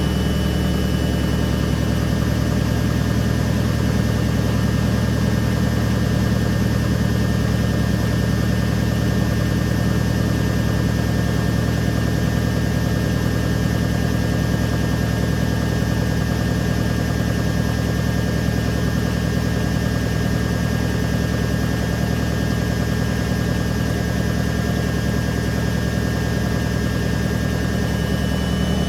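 Candy Aquamatic 100F compact washing machine on its final 800 rpm spin, the drum running steadily at speed with a deep hum and a thin, steady high whine.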